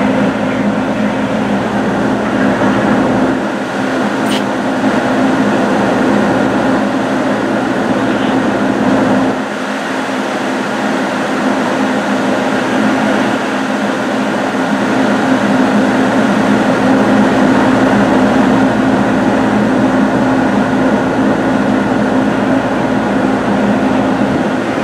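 Steady mechanical drone of an NJ Transit diesel-hauled commuter train standing at the platform, its locomotive engine running, with a strong low hum. It drops a little in level about ten seconds in.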